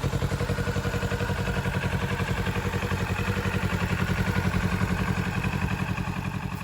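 2023 Kawasaki Z650RS's parallel-twin engine idling with an even, steady pulse, easing off slightly near the end.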